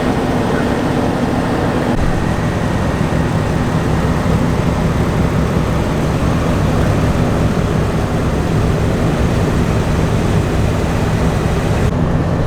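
Car engines idling in a steady, continuous low rumble.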